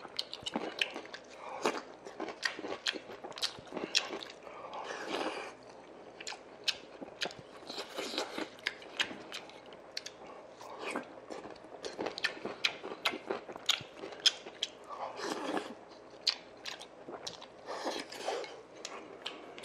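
Close-up chewing of a mouthful of sundae gukbap (rice in pork blood-sausage soup) with crunchy cubed radish kimchi: wet mouth clicks and crunches several times a second, without a break.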